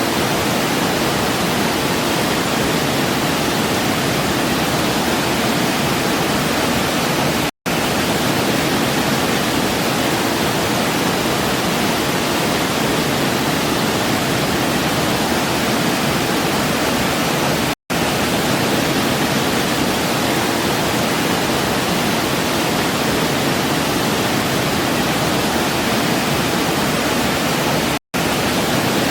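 Waterfall with steady rushing water. It is broken three times by brief cuts to silence about ten seconds apart.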